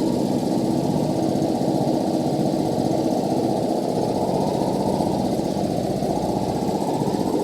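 Industrial rotary screw air compressor running with a steady mechanical hum.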